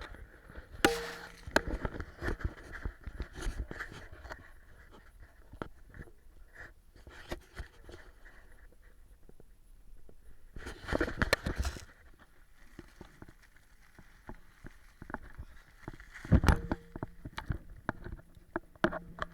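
Irregular clicks, scrapes and rustling, with louder flurries about a second in, near the middle and near the end.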